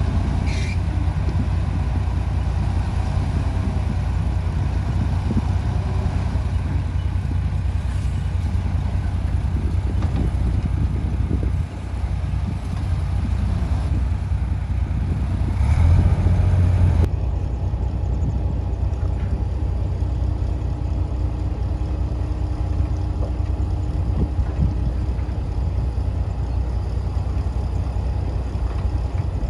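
Heavy diesel earthmoving machinery running steadily with a low engine drone, which briefly gets louder just past the middle.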